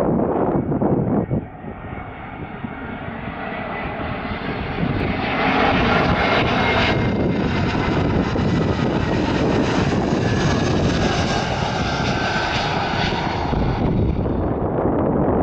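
An airliner on landing approach passing overhead: the engine sound swells for several seconds, holds with a thin whine, then eases off near the end. Wind buffets the microphone in the first second or so.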